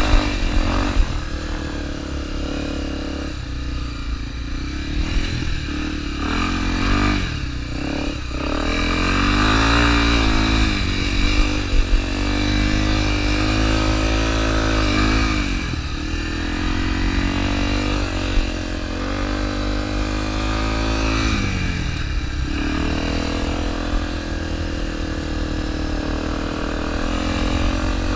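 Honda XR250 Tornado motorcycle's single-cylinder four-stroke engine under load while riding, its pitch rising and falling repeatedly as the throttle is opened and closed and gears change.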